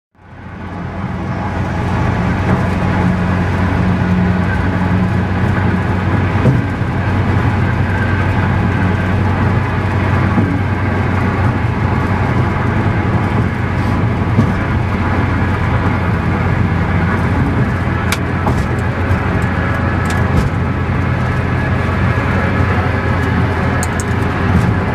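Vehicle engine running steadily: a constant low drone with a noisy wash over it, fading in over the first second or two.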